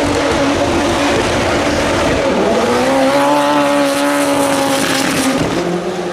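Race car running hard, with tyre squeal. Its pitch rises about two seconds in, holds high and steady for a couple of seconds, then drops near the end.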